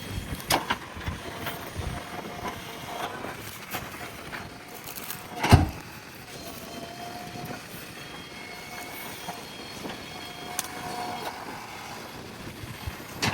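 JCB backhoe loader working, its engine running under a steady clatter of knocks, with one loud clank about five and a half seconds in. A faint whine comes and goes.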